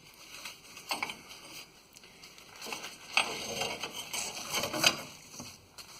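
Irregular knocks, clinks and short scraping sounds of hand work on rusty metal parts, busiest and loudest from about halfway through.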